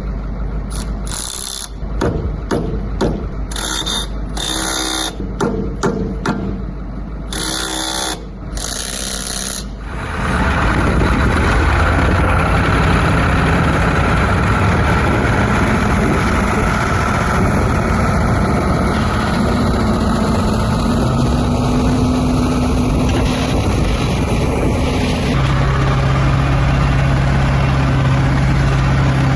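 Irregular clatter and knocks for about the first ten seconds. Then a big Massey Ferguson tractor's engine runs steadily under load as it drags an M4 Sherman tank on its newly fitted tracks, and a deeper steady tone comes in near the end.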